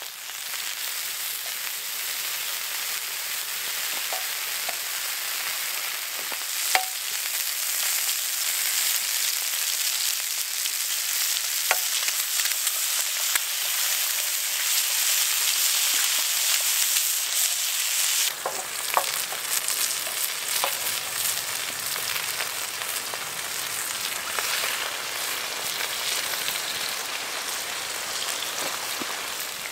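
Bacon, sausages and eggs sizzling steadily in fat on a hot cast iron griddle over a wood fire, the bacon starting to crisp. A few sharp clicks stand out over the frying.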